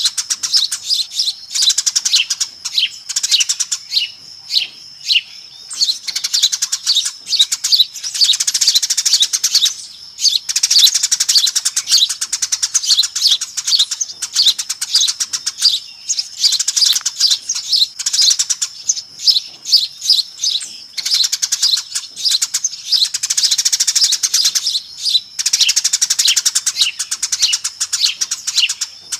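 Eurasian tree sparrows in a busy, noisy chatter of dense rapid chirps. The chirps come in bursts of a few seconds with short pauses between, over a faint steady high tone. It is a sparrow lure call.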